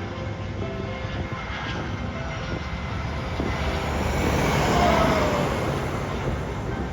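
Jet airliner passing close by the runway, its engine noise swelling to a peak about five seconds in, with a whine that falls in pitch as it goes past, then easing off.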